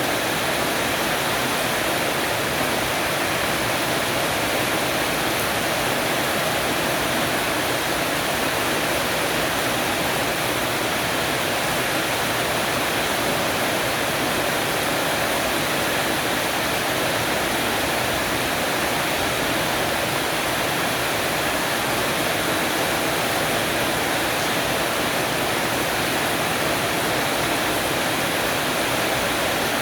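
Steady downpour of rain falling on a porch awning roof: a dense, even hiss with no breaks or changes.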